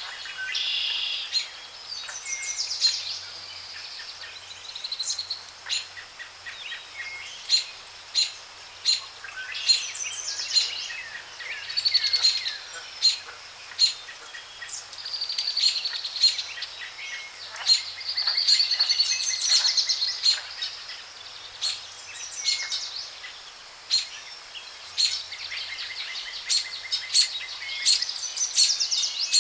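Rainforest ambience: many birds calling and trilling at once, with frequent short, sharp clicking calls over a soft background hiss.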